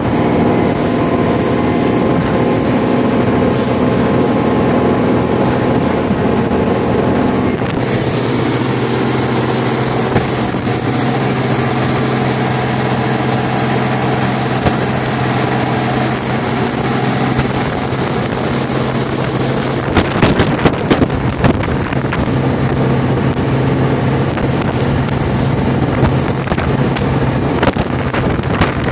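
Tornado RIB speedboat running fast on the open sea, its engine holding a steady note that shifts about eight seconds in, under heavy wind noise on the microphone. From about twenty seconds in, a run of sharp knocks and slaps joins in.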